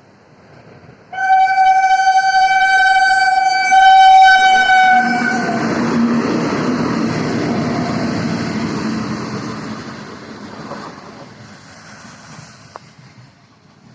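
A goods train's locomotive sounds one long horn blast of about four seconds, dipping slightly in pitch as it ends. The train then rumbles past, its engine and wheel noise loudest just after the horn and fading away over the last few seconds.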